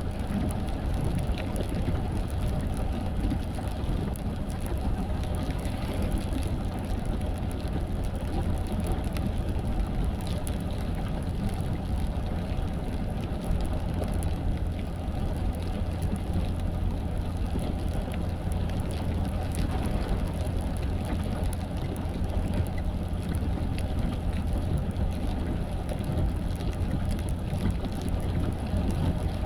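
Steady engine and tyre noise heard inside a moving car, with rain falling on the car.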